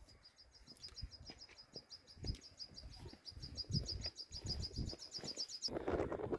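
A small bird singing one long, fast trill of high repeated chirps that speeds up slightly and then stops suddenly near the end. Intermittent low rumble of wind on the microphone runs underneath.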